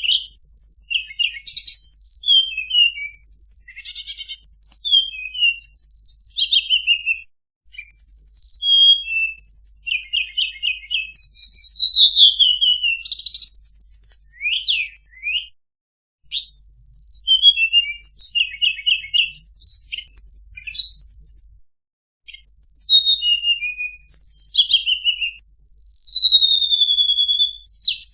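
Tledekan songbird singing a fast, varied run of high chirps, rapid trills and whistled up- and down-slides, with three brief pauses.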